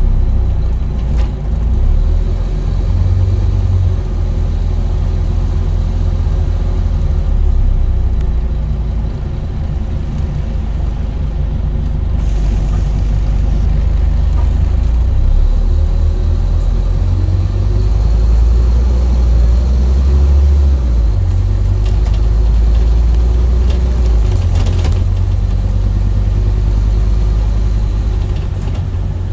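Scania N230UD double-decker bus's five-cylinder diesel engine running under way, a deep rumble that swells and eases several times as the bus pulls away and slows.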